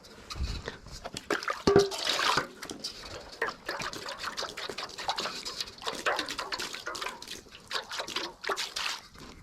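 Wet cement mortar being worked by hand: irregular scraping and wet slapping of a trowel or shovel through the mix, with a few louder knocks about two seconds in.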